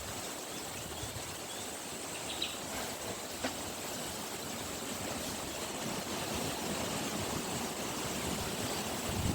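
Steady outdoor background noise, with a couple of faint short ticks about two and three and a half seconds in.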